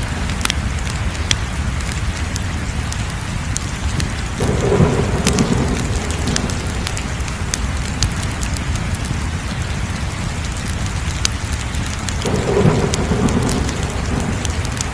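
Wood fire crackling: sharp pops and crackles over a steady low rumble of burning, with two louder swells of flame noise, one about four seconds in and one near the end.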